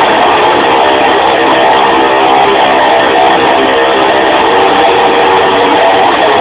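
Loud electric guitar music, a dense sustained wash of strummed, distorted-sounding notes with no breaks.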